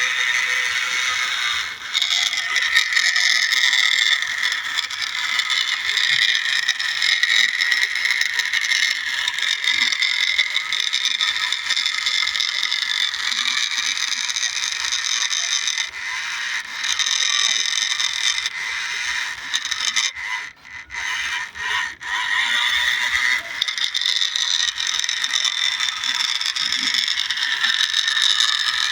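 Remote-control New Holland toy tractor's small electric motor and gears whining as it drives, a high-pitched whine that drifts a little in pitch. It cuts out briefly a few times a little past the middle.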